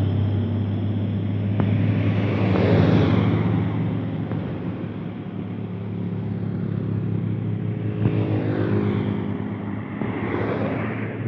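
Heavy truck's diesel engine running under load, a steady low drone that eases off after the first few seconds. Other vehicles pass by, swelling and fading about three seconds in and again near the end.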